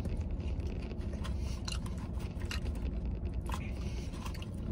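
A man chewing a mouthful of animal style fries, with scattered small wet clicks, over a steady low hum of the truck cab.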